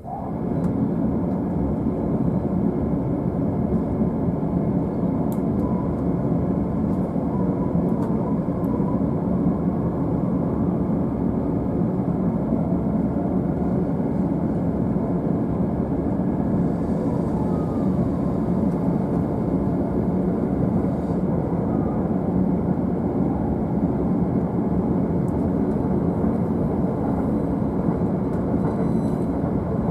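JR East E531 series electric train running at speed, heard from an upper-deck seat of its double-decker Green car: a steady, loud rumble of wheels on rail that comes in suddenly at the start.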